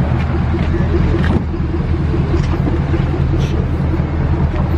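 Vehicle engine idling steadily, a low even rumble with a quick regular pulse, with a few faint clicks over it.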